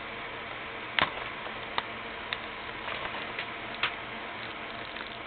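Scattered sharp clicks and taps of a plastic Blu-ray case and its packaging being handled, the strongest about a second in, over a steady hiss.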